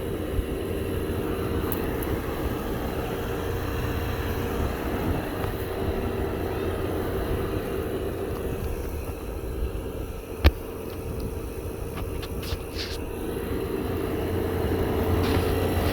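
Window air conditioners running, a steady drone of compressor hum and fan with a held tone near 500 Hz. A single sharp click about ten seconds in.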